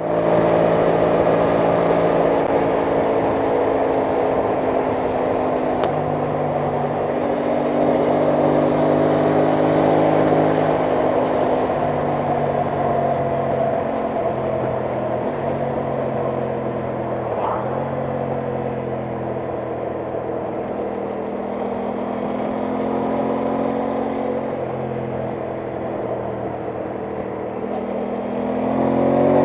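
Aprilia Tuono 660 Factory's parallel-twin engine running under way at a fairly steady cruise, its pitch easing slowly down through the middle, then rising as it accelerates near the end.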